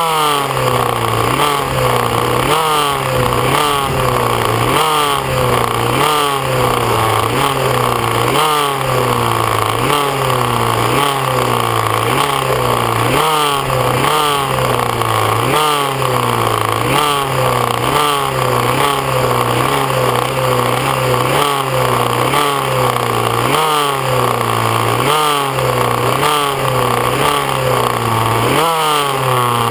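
Small two-stroke racing motorcycles, among them a 50cc Kreidler racer, running on the starting grid while the throttles are blipped over and over. The revs rise and drop again about every half second to a second, keeping the engines clean and warm before the start.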